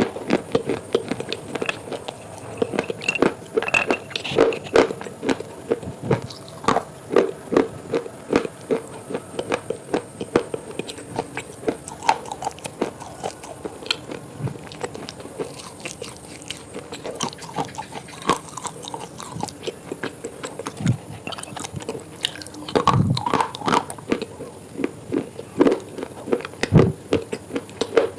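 Close-miked eating: crunchy bites and chewing, a dense run of sharp, irregular crunches and crackles.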